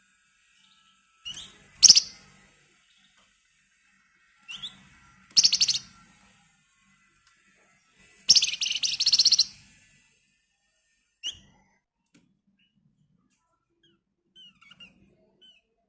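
Flamboyan (wergan Jawa) singing: a short rising chirp followed by a high, fast rattling trill, three times, the last and longest about eight seconds in, then one more chirp and a few faint notes near the end.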